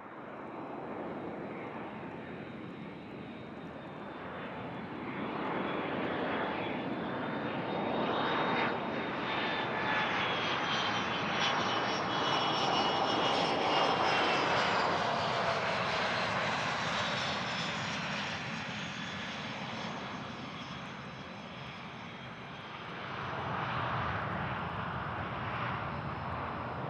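Aircraft engines passing along the runway: a roar that swells to a peak about halfway through and eases off, with a high engine whine that slowly falls in pitch as the aircraft goes by. A second rise in the roar comes near the end.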